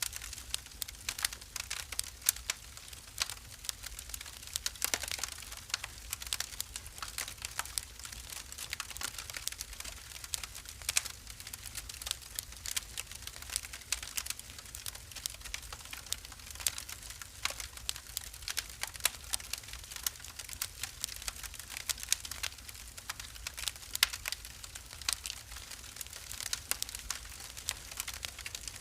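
Wood fire burning in a fireplace, crackling with many irregular sharp pops and snaps over a faint steady hiss.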